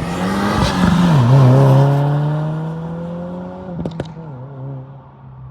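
Subaru WRX fitted with a titanium single-exit catback exhaust, the engine note dropping in pitch about a second in and then holding steady as it slowly fades, with a sharp crack about four seconds in.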